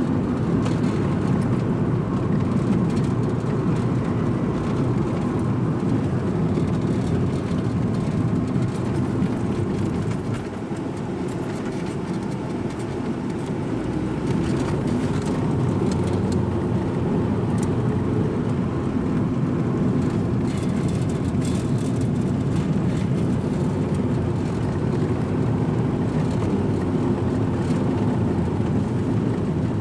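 Strong wind buffeting the microphone: a loud, steady low rumble that eases briefly about ten seconds in.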